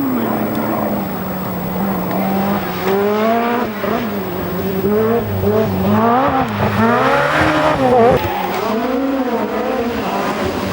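Peugeot 205 T16 Group B rally car's turbocharged 1.8-litre four-cylinder engine being driven hard, its revs rising and falling again and again through gear changes and lifts, with a run of quick rises and drops past the middle.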